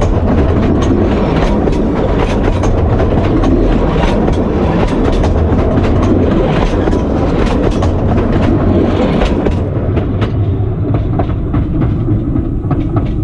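Narrow-gauge (760 mm) railway coaches rolling directly over the rails above the microphone: a loud, steady wheel rumble with many sharp clicks and clatter from the wheels and bogies. After about ten seconds the clicking thins out and the sound eases as the last coach passes.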